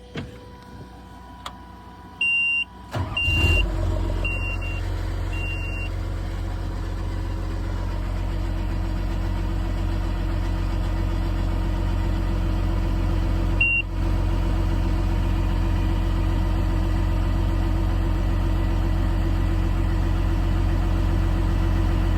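John Deere 750J crawler dozer's diesel engine starting about three seconds in, for a test run after a hydrostat PCP coil repair, then idling steadily. Short high warning beeps from the machine's monitor sound just before and after the start, and once more midway.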